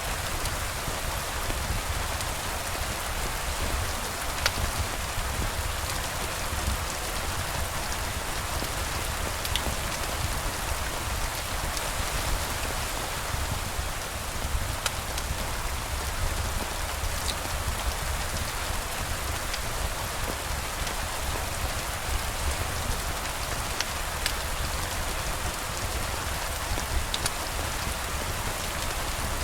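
Steady rain falling, an even hiss with scattered faint ticks of individual drops and a low rumble underneath.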